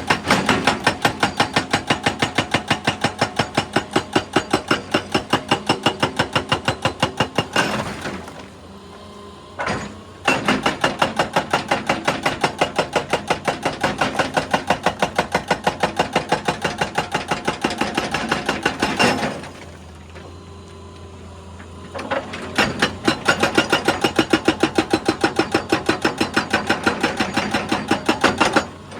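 Excavator-mounted hydraulic breaker hammering rock in a rapid, steady stream of blows, several a second. It stops twice for about two seconds, leaving the excavator's engine running, then starts hammering again.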